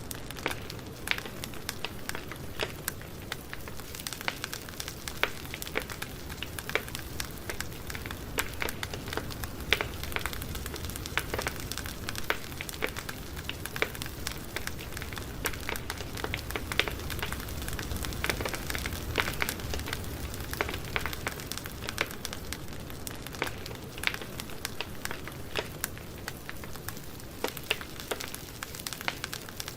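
Campfire burning, with frequent sharp irregular crackles and pops over a steady low hiss of the flames.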